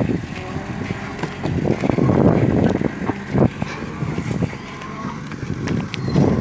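Sugarcane truck running under load, its engine sound rising and falling unevenly, with scattered knocks and rattles.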